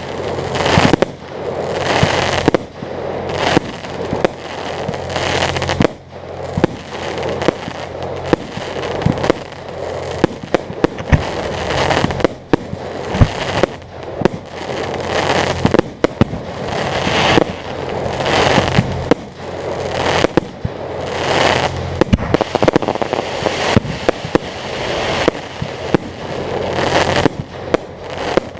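Fireworks display: aerial shells bursting in a steady string of loud bangs, one to several a second, with crackling between them.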